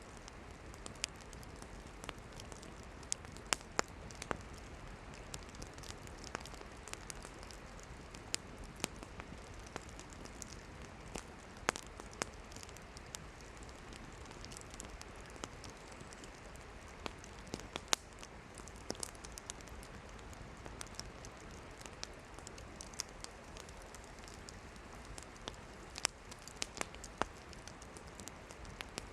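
Wood campfire burning with frequent sharp, irregular crackles and pops of burning firewood over a steady low hiss.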